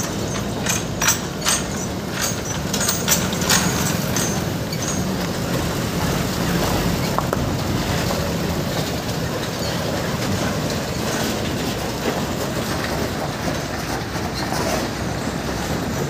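Truck on the move: a steady rumble of engine and road noise, with a run of sharp rattling clicks over the first few seconds.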